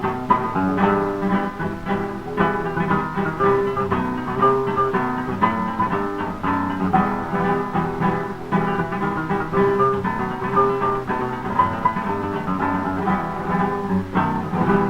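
Instrumental guitar interlude of a cueca from a 1920s 78 rpm record: acoustic guitars pick a melody over strummed chords, with a narrow, muffled sound that has little top end.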